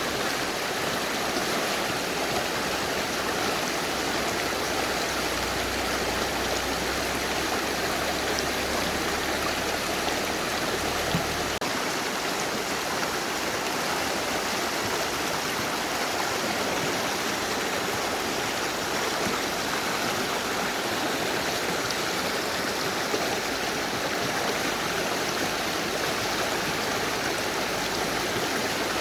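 Mountain river rushing over rocks: a steady, dense roar of water.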